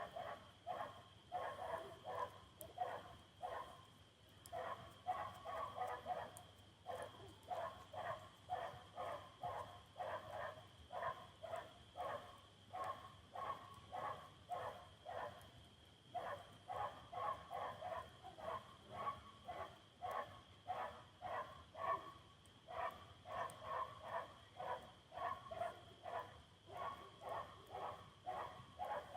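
A dog barking over and over, about two barks a second in runs with brief pauses, over a steady high-pitched tone.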